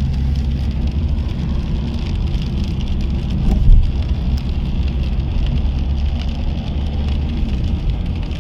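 Car cabin while driving on a wet road in rain: a steady low rumble of engine and tyres with a hiss of rain and spray, and one short low thump about three and a half seconds in.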